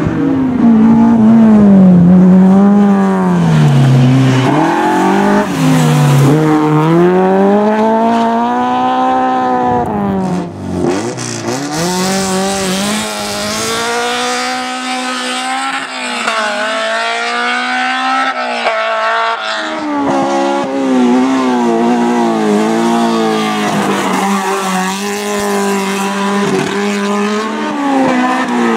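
BMW M3 E30 four-cylinder engine driven hard, its revs rising and falling again and again with sudden drops between the climbs.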